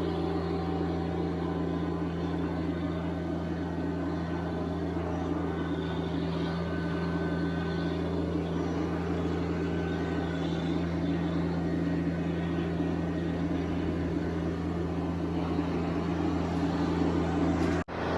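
TYM T574 subcompact tractor's diesel engine running steadily under work, a constant even drone. It drops out for an instant near the end.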